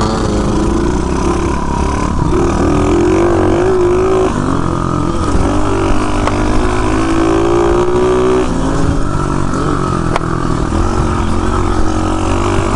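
Dirt bike engine running under way. Its pitch climbs about two seconds in, holds high for several seconds, then falls back about two-thirds of the way through as the throttle eases.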